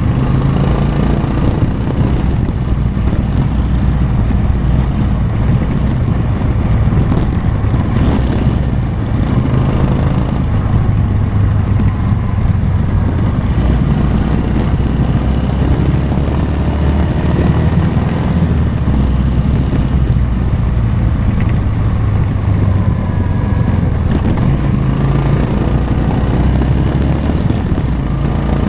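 Motorcycle engine running steadily while riding, its pitch shifting slightly up and down.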